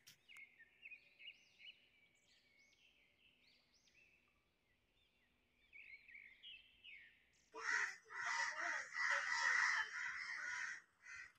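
Birds calling: a string of short, quick chirps, then about seven and a half seconds in a louder, noisier bout of calling lasting about three seconds.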